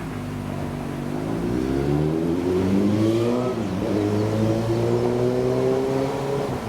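Tenryu Hamanako Railroad TH2100-series diesel railcar's engine accelerating. Its pitch climbs, drops briefly about three and a half seconds in as it shifts, then climbs again while growing louder.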